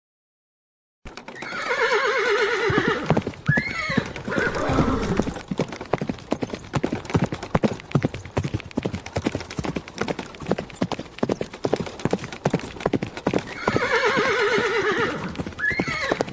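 Silence for about the first second, then a horse whinnies over rapid hoofbeats. The hoofbeats go on, and a second whinny comes about 13 seconds in.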